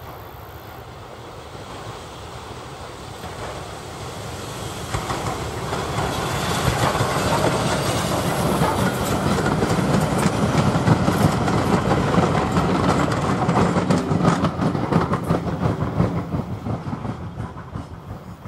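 A steam-hauled passenger train, behind an Austerity 0-6-0T tank engine, approaches and passes close by. It grows steadily louder, and as the coaches go by the wheels make a run of sharp clicks over the rail. The sound fades away near the end.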